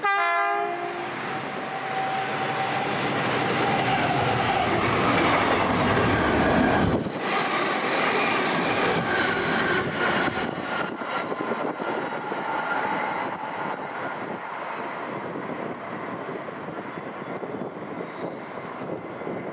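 Passenger train sounding its horn briefly as it runs through the station, then the loud rush of the train passing at speed, with wheel and rail noise and a thin whine. The deep rumble drops away about seven seconds in.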